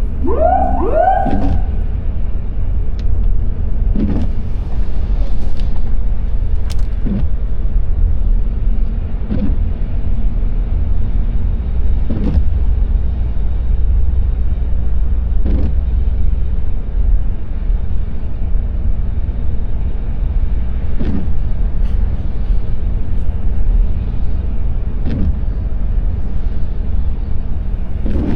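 Steady low road and engine rumble heard inside a moving car in the rain, with a brief swipe recurring every few seconds, typical of windscreen wipers. A few short rising squeals sound in the first second and a half.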